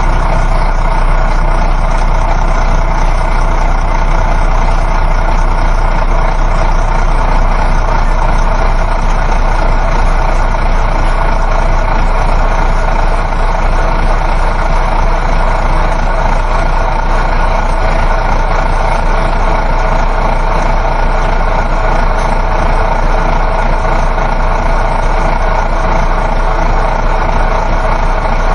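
Coach bus engine drone and road noise heard inside the passenger cabin while driving, steady throughout.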